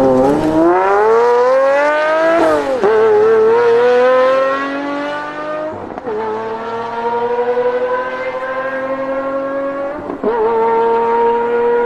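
Sports car engine accelerating hard through the gears, its pitch climbing and then dropping sharply at three upshifts, each gear rising more slowly than the last.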